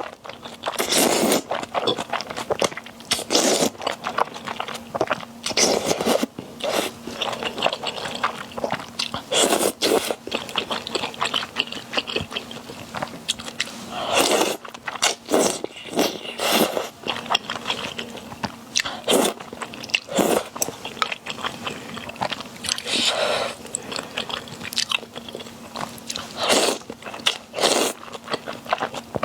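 Close-miked eating sounds: repeated bites and crunchy chewing in quick bursts, over a faint steady hum.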